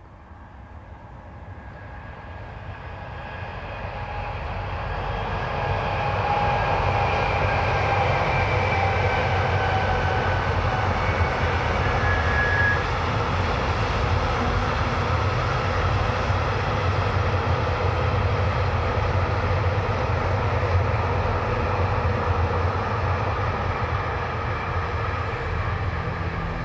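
Freight train hauled by a Bombardier Traxx class 187 electric locomotive approaching and passing. The rumble of the wagons on the rails grows louder over the first six seconds, then runs steady. A whine above the rumble drifts slightly down in pitch in the first half.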